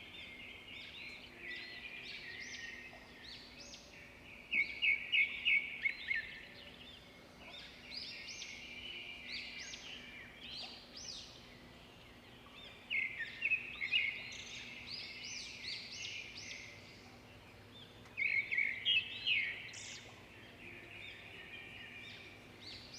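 A chorus of aviary birds calling and chirping, with three louder bursts of rapid chirps: about a fifth of the way in, a little past halfway, and again near the end.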